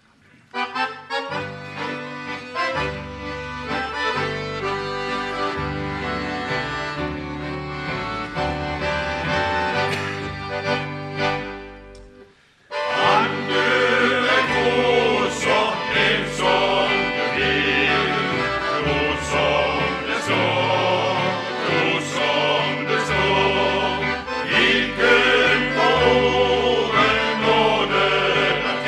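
Instrumental interlude of a gospel song led by accordion over a steady bass line. The music dips briefly about twelve seconds in, then comes back fuller and louder.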